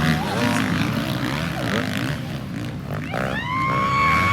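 Motocross bike engines revving up and down as bikes ride the track, their pitch rising and falling. Near the end one bike climbs to a high rev and holds it before dropping off.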